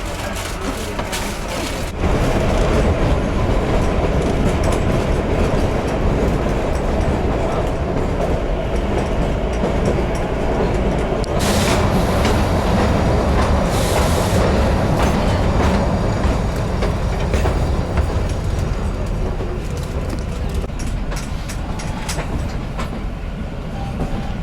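Narrow-gauge Kalka–Shimla toy train running, heard from inside a carriage: a steady rumble with the clack of wheels over rail joints, growing louder about two seconds in.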